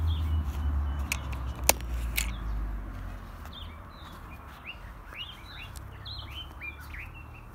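Small birds chirping: a run of short, quick, falling chirps that grow more frequent through the second half, over a low rumble that fades in the first few seconds. A single sharp click about one and a half seconds in.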